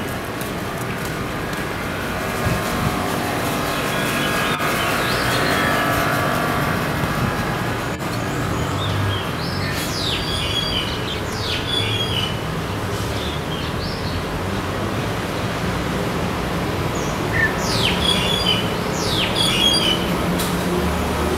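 Birds calling with short, sharp, falling chirps, in a cluster about ten seconds in and again near the end, over a steady low background rumble.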